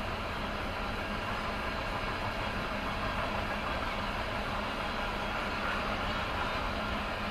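Norfolk Southern mixed freight train rolling past, a steady rumble of its cars' wheels on the rails.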